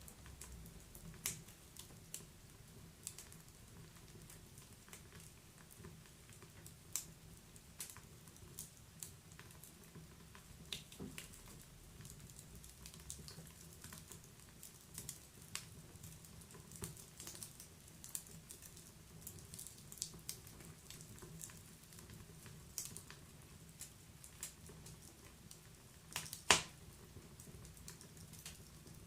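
Wood fire in a fireplace crackling: scattered sharp pops and snaps from the burning logs over a low, steady rumble of the flames, with one louder pop near the end.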